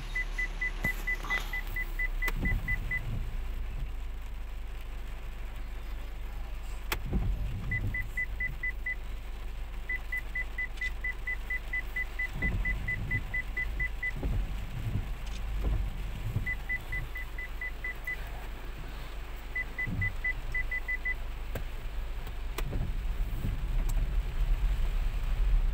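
Rain falling over a steady low rumble, broken by several runs of rapid, high electronic beeps, about six a second.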